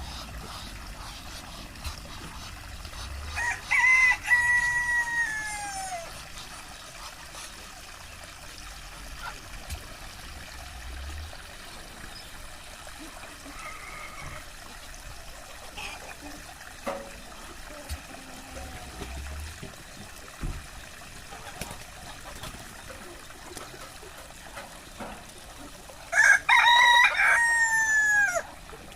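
A rooster crowing twice, each crow a long call that falls in pitch at the end, the first a few seconds in and the second near the end, over quieter farmyard chicken sounds.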